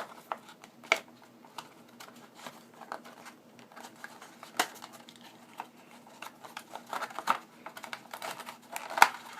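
Retail packaging being handled and pulled apart by hand: scattered light clicks, taps and crinkles, with a louder knock about nine seconds in.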